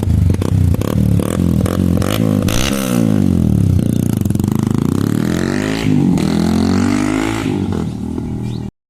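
Yamaha R15 V3's single-cylinder engine through an Akrapovic slip-on exhaust, its note repeatedly falling and rising in pitch as the revs change, with sharp ticks in the first couple of seconds. The sound cuts off suddenly near the end.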